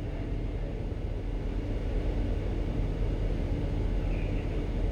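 Steady low hum and rumble of a ship's machinery, holding even throughout with a light noise hiss over it.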